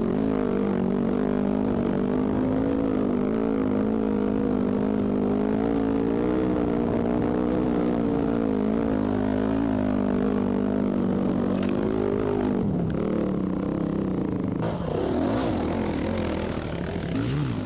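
Dirt bike engine running under steady throttle, its note wavering slightly. About twelve seconds in the note drops, then it revs up and down with gliding pitch near the end.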